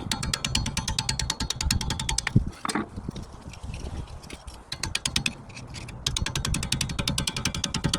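Rapid, evenly spaced mechanical clicking from a tool, about fourteen clicks a second, in two runs of two to three seconds. A single knock falls between them, about two and a half seconds in.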